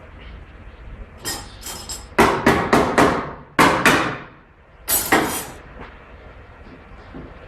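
A hammer striking metal, about ten sharp blows in quick groups over some four seconds, each with a short metallic ring.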